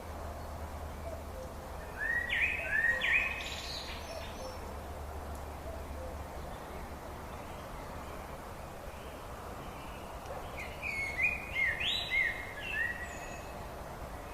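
A songbird sings two short phrases of quick rising notes, about two seconds in and again about eleven seconds in, over a steady outdoor hiss.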